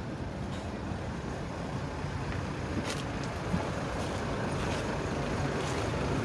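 Steady rumble of truck and road traffic engines, with a few faint clicks.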